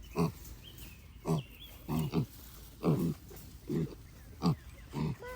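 Pigs grunting while being fed scraps: a run of about eight short, low grunts, one every half second to second.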